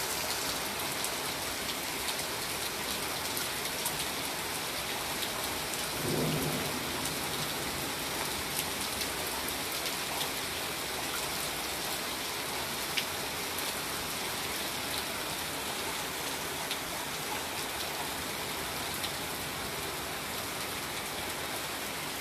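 Hard rain falling steadily, a continuous hiss with scattered faint drip ticks. A brief low sound comes about six seconds in.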